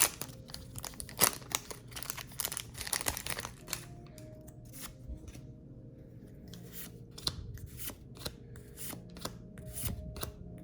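Handling a foil booster pack and trading cards: dense crinkling for the first few seconds, then a string of light clicks and slides as the cards are flicked through one by one.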